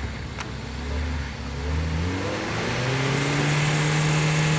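Off-road vehicle's engine revving: low for the first second or so, climbing in pitch, then held steady at high revs from about three seconds in.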